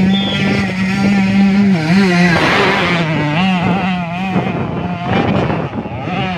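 Dirt bike engine running hard at high revs on a hill climb, its pitch steady at first, then dipping and wavering from about two seconds in as the throttle is worked.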